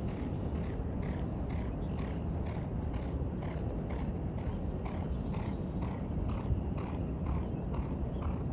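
Horse's hooves striking the track in a steady rhythm, about two to three strikes a second, over a constant low rumble of wind on the microphone.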